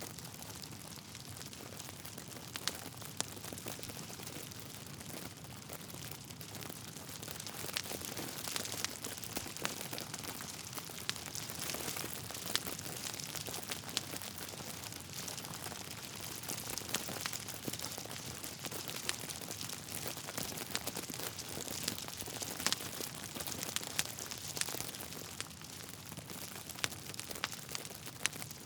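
Log fire in a fireplace crackling, with frequent irregular sharp pops and snaps over a steady hiss that grows somewhat louder for a stretch in the middle.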